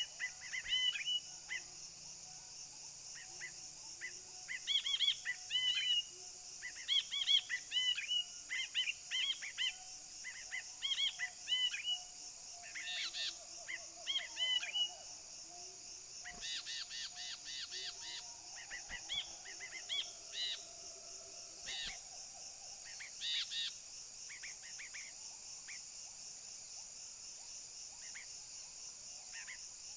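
Brinji (bulbul) calling in quick bursts of short chirpy notes, busy for most of the stretch and thinning out near the end, over a steady high-pitched hiss.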